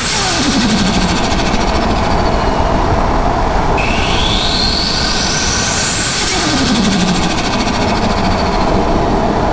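Turbocharged Ford Barra inline-six accelerating hard and loud. Near the start and again about six seconds in, a gear change brings a short falling sound as the throttle closes, typical of turbo flutter. Between the shifts the turbo's whistle climbs steadily in pitch, then cuts off at the second change.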